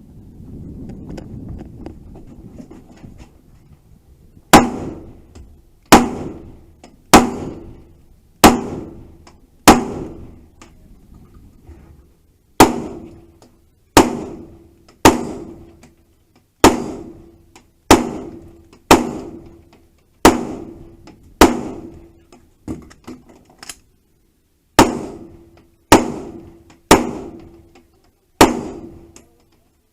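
Gunshots fired one at a time, about a second apart, roughly twenty in all, each followed by a short ringing tail, with two brief pauses between strings of shots.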